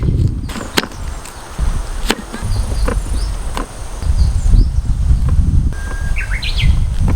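Birds chirping in short calls, several times, over a loud low rumble, with a few sharp clicks.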